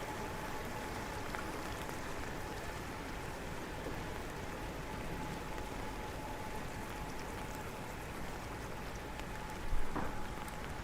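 Steady rain falling and pattering on surfaces, with a faint steady tone in the background and a short knock near the end.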